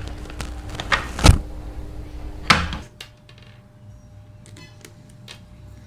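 Plastic toy aeroplane parts clicking and knocking as they are handled and a screw is fitted, with the two loudest knocks about a second in and about two and a half seconds in. After about three seconds only faint background noise and a few light ticks remain.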